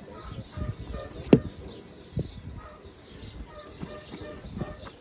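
Small birds chirping over and over with short high calls. A sharp knock about a second in is the loudest sound, with a smaller knock a second later and low handling thumps around it.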